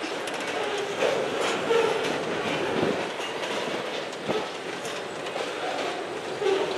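Freight cars, including double-stack intermodal well cars, rolling slowly past on steel wheels, with clacks and knocks at uneven intervals as the wheels cross rail joints. Short wheel squeals come and go.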